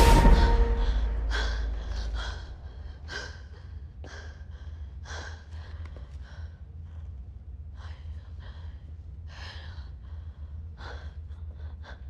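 A person breathing hard in short, repeated gasps, about one a second, over a low steady hum. It follows a loud sound that dies away over the first two seconds.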